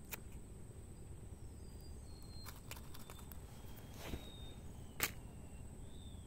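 Outdoor riverbank ambience: a steady low rumble and a thin, steady high whine, with short high chirps. A few sharp clicks or taps come through it, the loudest about five seconds in.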